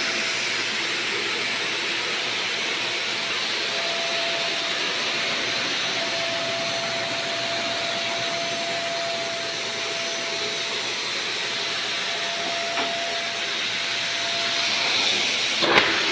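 Vacuum cleaner running steadily, a constant rush of air with a high motor whine, as the kitchen floor is cleaned. A sharp knock sounds near the end, and the sound changes just after it.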